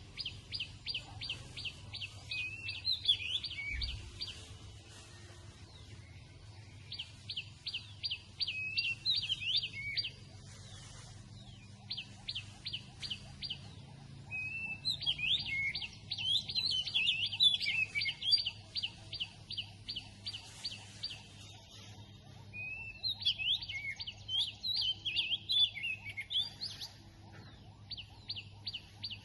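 Wild birds singing in a dawn chorus: bouts of several seconds made of rapid runs of quick, high, downslurred whistles, about five a second, mixed with tangled warbling notes, with short pauses between bouts.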